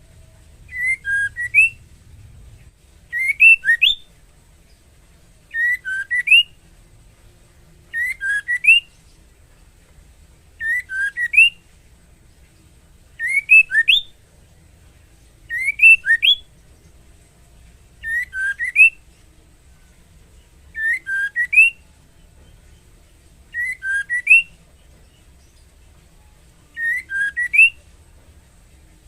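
Female white-rumped shama calling to a male: a short phrase of three or four quick whistled notes, some rising, repeated about every two and a half seconds, about eleven times.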